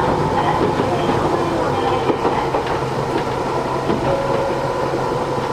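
Matsumoto Electric Railway 3000 series electric train running at speed, heard from inside the passenger car. Steady rolling noise with a constant hum of tones and a few light clicks from the wheels.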